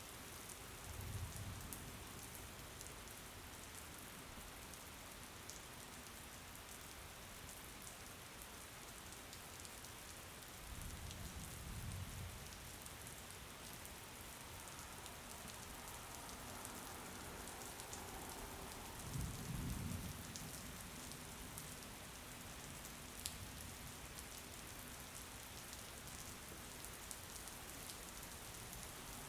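Steady rain falling, an even hiss with scattered sharper drop ticks. Three brief low rumbles rise out of it: about a second in, around twelve seconds and around twenty seconds.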